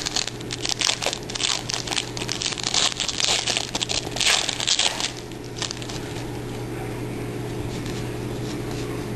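Trading card pack wrapper crinkling and tearing as it is opened, for about the first five seconds. After that only a steady low hum and a few faint clicks remain.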